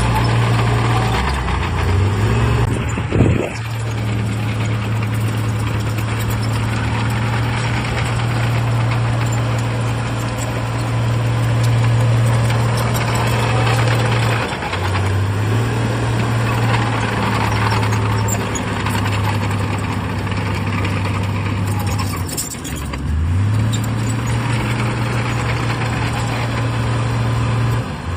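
Bulldozer's diesel engine running hard at a steady pitch, its speed sagging briefly about halfway through and more deeply about three-quarters through before climbing back up. A sharp knock about three seconds in.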